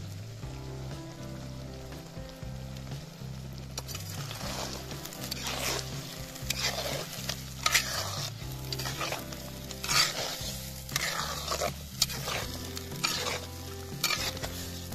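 Mutton frying in oil with masala spices in a handi pot, sizzling, stirred with a metal spatula. From about four seconds in come repeated scraping strokes of the spatula against the pot. Soft background music with steady low notes runs underneath.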